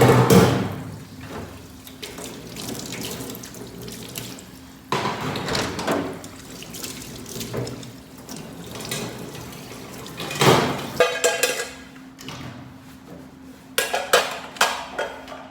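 Water running in several separate bursts, as from a tap into a sink.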